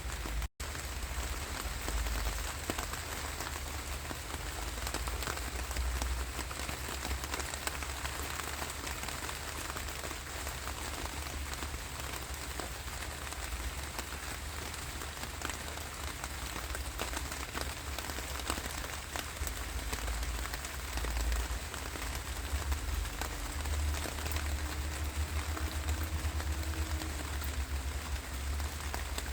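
Steady rain falling, with many separate drops ticking on a surface over a low rumble. The sound cuts out for an instant about half a second in.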